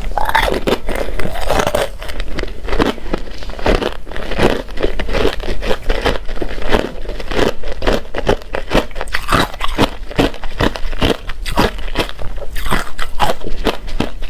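A person chewing crunchy ice close to the microphone: a rapid run of sharp crunches, several a second.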